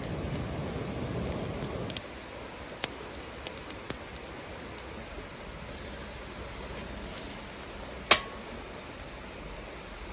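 Wood fire crackling in a fire pit: scattered sharp pops over a soft steady hiss, with one loud snap that rings briefly about eight seconds in.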